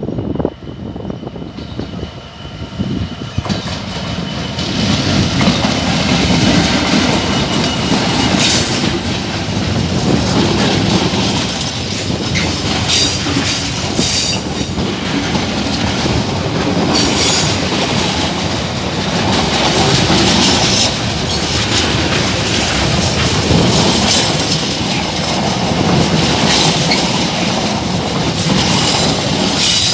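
Freightliner Class 66 diesel locomotive passing with an intermodal container train: a loud, steady rumble with the repeated clickety-clack of wagon wheels over rail joints. It starts quieter and builds up over the first four seconds.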